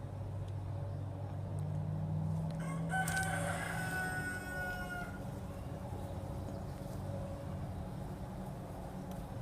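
A rooster crowing once, a pitched call of about two seconds starting about three seconds in, over a steady low hum.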